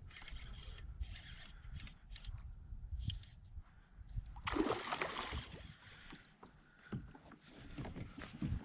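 Water sloshing and splashing around a kayak, with scattered knocks and bumps on the hull and a louder splashing rush about halfway through.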